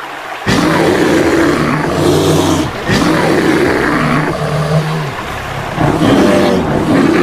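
Big cat roaring and growling in several long calls, one after another.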